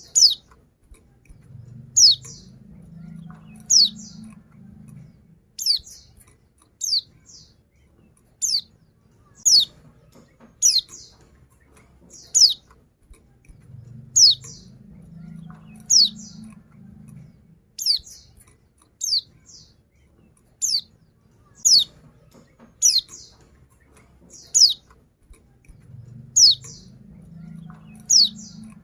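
Female white-eye (pleci) calling: short, high notes that drop in pitch, each followed by a softer note, repeated about once every second or two. It is the female call that draws male white-eyes into singing.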